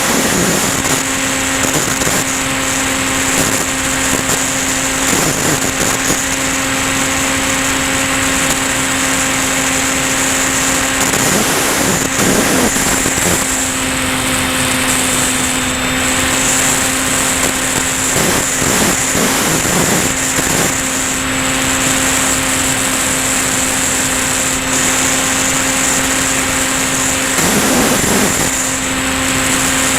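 Electric motor and propeller of a Volantex Ranger EX FPV plane running at a steady throttle in flight, a constant hum with a high whine over a loud rush of air, as heard through the onboard camera.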